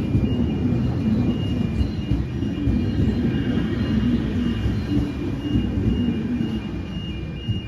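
A train rumbling past close by, easing off slightly near the end. Level crossing warning bells ring throughout in a repeating high two-note pattern.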